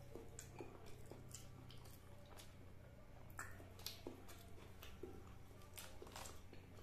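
Faint chewing of a mouthful of food, with scattered soft wet clicks and squishes from the mouth.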